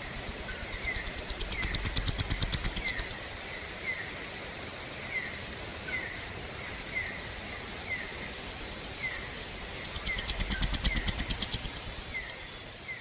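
Insects calling: a high, rapidly pulsing trill that swells twice, with short falling chirps from a second caller about once a second.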